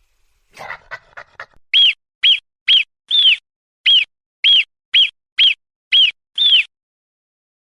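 An animal calling: a brief flurry of clicks, then ten short high whistled notes, each rising and falling, about two a second.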